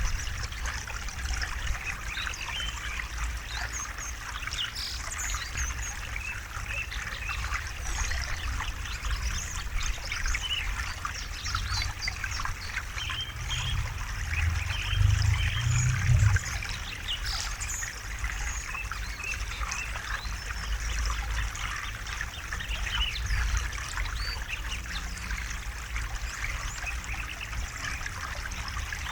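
A river stream running and trickling steadily, with birds chirping over it. About halfway through, a low rumble swells for a couple of seconds.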